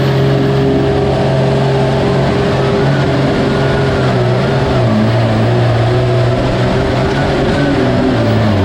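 Engine of a pulling vehicle running hard under load on a sled pull, loud and steady. Its pitch sags a little about four to five seconds in.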